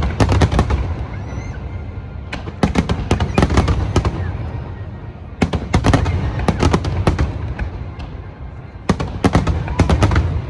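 Fireworks shells bursting in rapid volleys of sharp bangs, a new volley about every three seconds, over a continuous low rumble.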